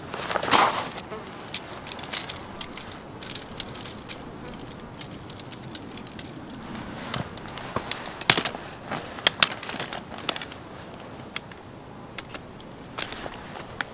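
Irregular sharp clicks and clinks, as of small hard objects being handled, with a few louder knocks about half a second in and again around eight to ten seconds in.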